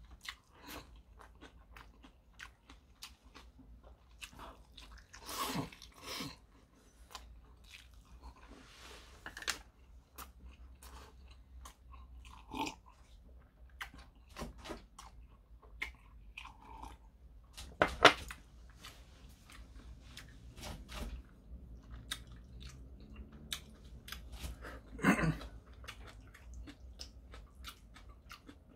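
Close-miked chewing and eating of instant stir-fried noodles with spam and egg: many small wet clicks of chewing and biting, with a few louder knocks, the loudest about two-thirds of the way through.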